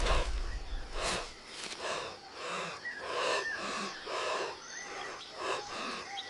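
A person's rapid, heavy breathing in quick puffs, about two a second. A low rumble fades out in the first second and a half.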